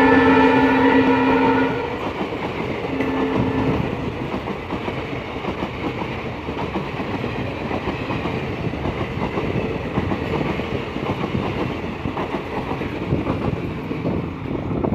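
Indian Railways express train: its horn sounds loudly until about two seconds in, then gives a short second blast, before the train passes with a steady rumble and rapid clatter of wheels over the rail joints.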